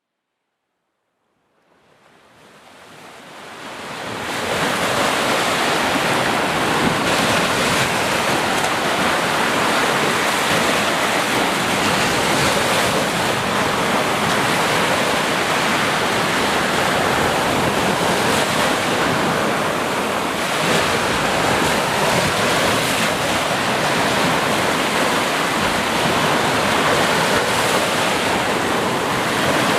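Sea surf: a steady wash of waves on the shore, fading in from silence over the first few seconds and then holding level with gentle swells.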